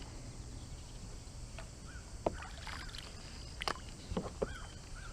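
Quiet outdoor background: a steady low rumble with a few sharp, separate clicks and some faint, short chirps.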